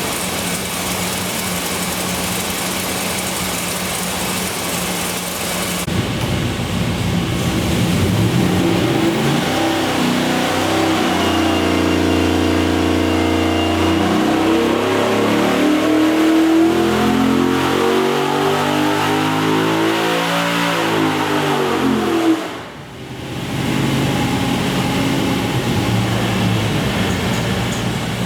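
GM LS-series V8 running on an engine dyno: it idles, then the revs climb steadily through a long pull. Near the end the throttle is chopped, the revs fall away suddenly and the engine settles back to idle.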